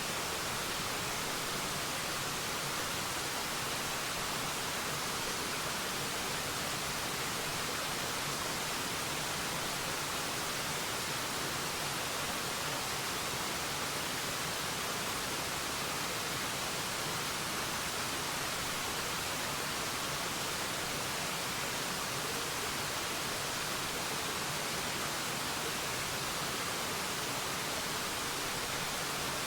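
Waterfall rushing steadily: an even hiss of falling water, strongest in the high range, with no distinct splashes or changes.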